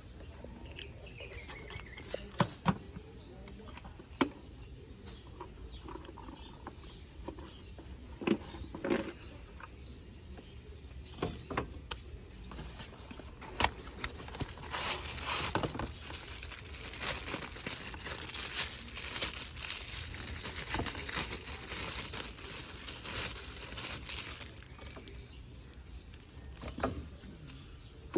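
Handling of the car's cabin air filter housing: several sharp plastic clicks and knocks, then about ten seconds of rustling and scraping, like the pleated filter sliding against its plastic housing, fading near the end.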